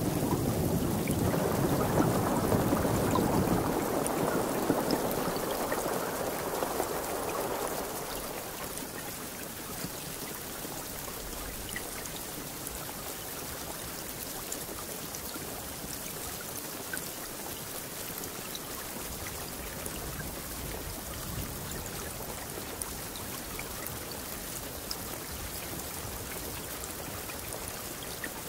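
A rumble of thunder in the first several seconds fades out about eight seconds in, leaving steady rain falling, with scattered drops ticking.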